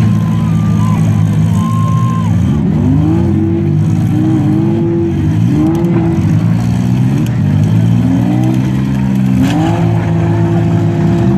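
Demolition derby car engines running and revving, their pitch climbing and falling again and again, with a rev climbing and holding high near the end.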